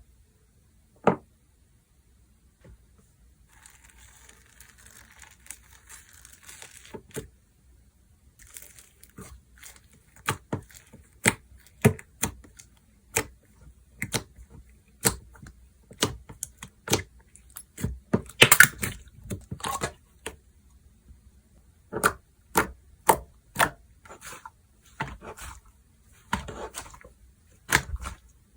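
Slime being pressed, stretched and folded by hand, giving irregular sharp clicks and pops. A soft hiss comes a few seconds in, and there is a denser run of pops a little past the middle.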